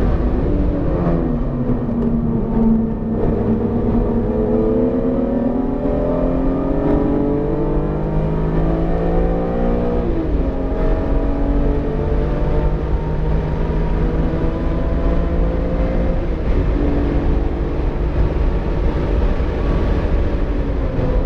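BMW E46 M3's S54 straight-six, freshly built and still in break-in, pulling up through the revs under acceleration, with a sharp drop in pitch about ten seconds in as it shifts up. It holds a steady note, falls away a few seconds later, then starts climbing again near the end, over steady road and tyre rumble.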